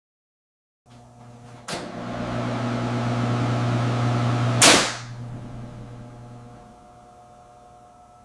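A machine hum with steady tones starts about a second in and grows louder. A sharp whoosh with a crack hits about four and a half seconds in, then the hum fades away.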